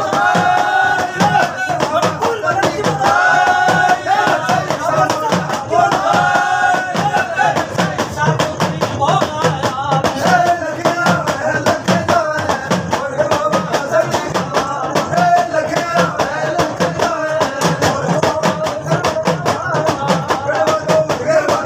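Live Rajasthani devotional folk music: a singer with melodic accompaniment over dense, fast, even percussion. Three short held phrases come in the first few seconds, then a continuous melody runs on.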